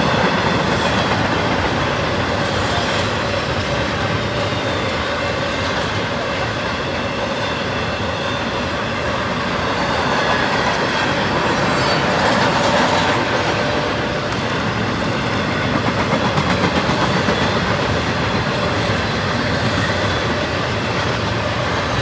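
A train rolling past, a steady noise of wheels on rail that swells slightly twice in the second half.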